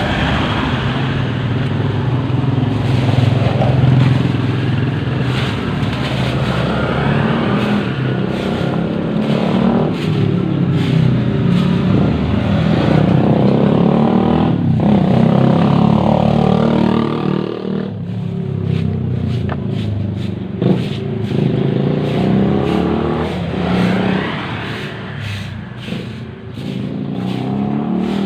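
A motor vehicle running, its engine pitch rising and falling several times over a steady hiss, growing a little quieter in the last third.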